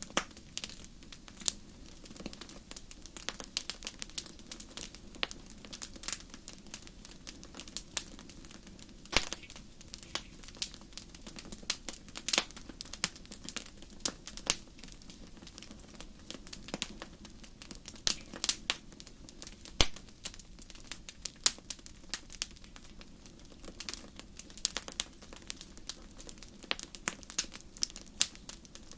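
Fireplace fire crackling: a dense, irregular run of sharp pops and snaps, some louder than others, over a faint steady low rumble.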